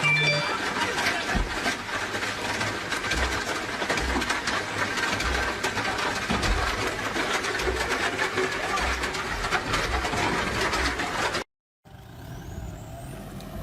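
Vehicle noise, likely a truck engine, full of knocks and clatter. It cuts off suddenly about eleven seconds in, and a quieter steady noise follows.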